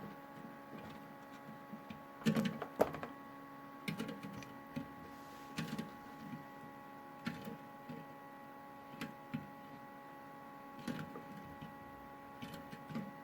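LG washing machine running with a steady motor hum while Kinder Surprise eggs tumble in the drum, knocking and clicking against it at irregular moments, roughly once a second.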